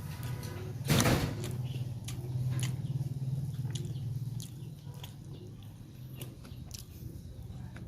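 A person eating close to the microphone, chewing and smacking with many short wet clicks and one louder, longer noisy bite or slurp about a second in, over a steady low hum.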